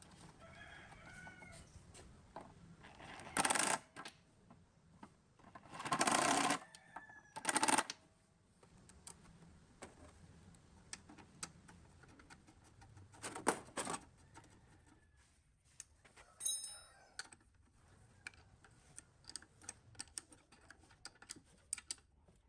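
A chicken calling in the background, twice, amid workshop noise: four short loud bursts of noise and many scattered light clicks.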